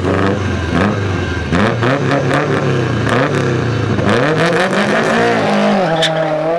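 A car engine revving and accelerating, its pitch rising and falling several times, with sharp crackles scattered through it.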